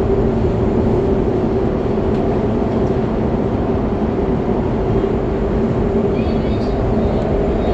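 Qingdao Metro Line 8 train heard from inside the car, running steadily through the tunnel: an even rumble and rush of wheels on rail with a constant whine from the drive.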